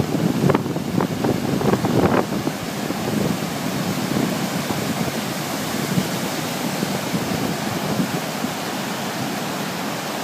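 Floodwater rushing over a flooded causeway, a steady, even rushing noise, with a few brief bumps in the first couple of seconds.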